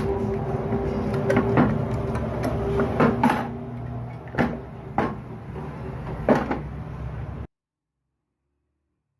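A steady machine-like hum with a series of sharp knocks and clicks over it, about six in all. It all cuts off abruptly into silence about seven and a half seconds in.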